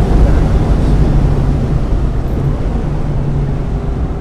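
1995 Mazda Miata's 1.8-litre four-cylinder engine running at fairly steady revs, heard from the car, over a constant rumble of tyre and road noise.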